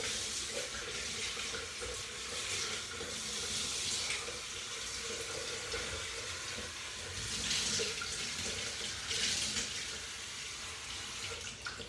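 Tap water running steadily into a bath, swelling in strength now and then.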